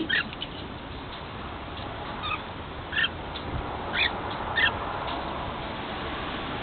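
Budgerigars giving a handful of short, high chirps at irregular intervals over a steady background hiss.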